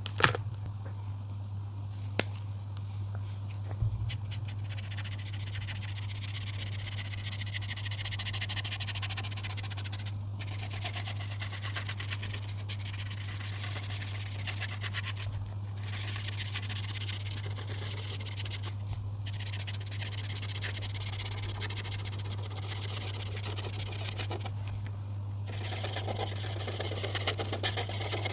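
Coloring strokes on paper: a fast, scratchy rubbing that stops briefly several times as the tool is lifted. A few sharp clicks come in the first four seconds, and a steady low hum runs underneath.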